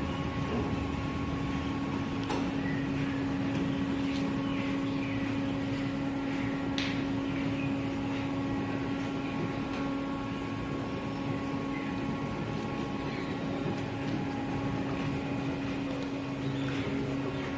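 An engine running steadily, giving a constant hum at one pitch, with a few faint clicks and knocks over it.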